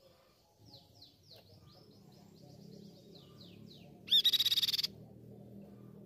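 Crescent-chested babbler calling: a quick series of falling whistled notes, about four a second, then a loud harsh burst lasting under a second, about four seconds in.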